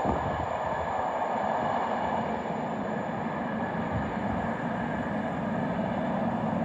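A train running past, a steady rumble of wheels on rail with a few faint steady whining tones over it.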